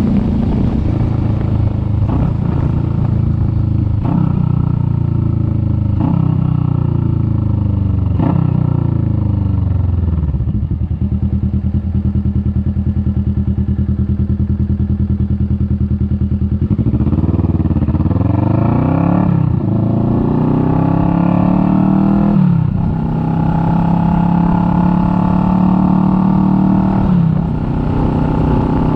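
Kawasaki Vulcan S 650's parallel-twin engine: it slows down with the engine note falling in several steps, idles for about six seconds, then pulls away with the note rising through the gears, shifting up three times.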